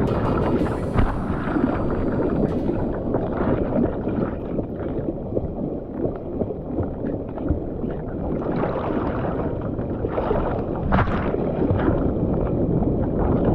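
Ocean water sloshing and churning close to the microphone while out in the surf, with wind noise, rising and falling, and a brief sharper rush about eleven seconds in.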